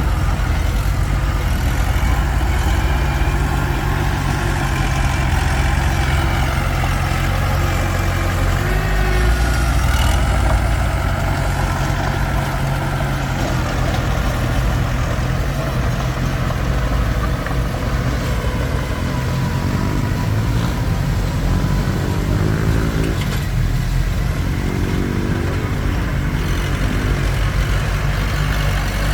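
Komatsu D21P crawler bulldozer's diesel engine running steadily at work, with a higher whine that rises and falls a little.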